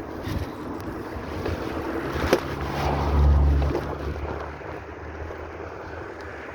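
Steady road and wind rumble of a moving vehicle, with wind buffeting the microphone. About two seconds in comes a sharp knock, followed by a low engine drone that swells for a second or two and then fades back.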